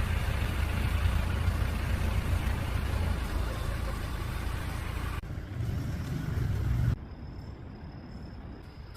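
Steady rumbling background noise, like road traffic or wind on the microphone, that drops off sharply about seven seconds in.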